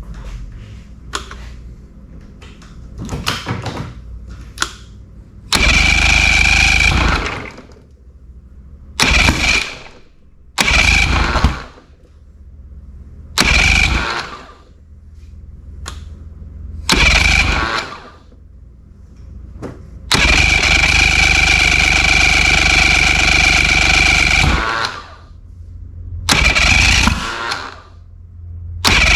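Boat outboard motor's electric starter cranking again and again in about eight bursts, one held for about four seconds, with a whining starter and little clicks before the first try. This is a crank-but-no-start fault being tested after new ignition coils were fitted; an intermittent miss on cylinder 3 was later found.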